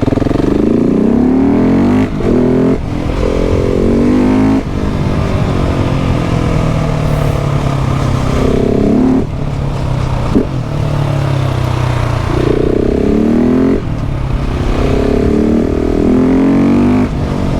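KTM 690 SMC R's single-cylinder engine under hard acceleration. The revs climb and then cut back sharply about five times, with enough drive to lift the front wheel.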